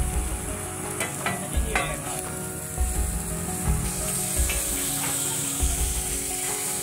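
Roti john frying in oil on a flat-top griddle: a steady sizzle, with a few sharp clicks of a metal spatula against the griddle.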